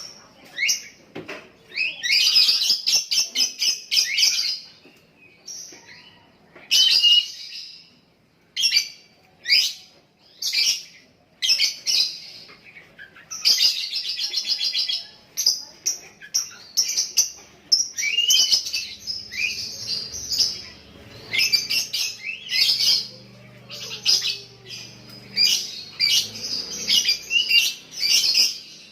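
Young lovebird chattering in repeated runs of rapid, high chirps, some runs lasting about two seconds with short breaks between: the long chattering song that lovebird keepers call ngekek.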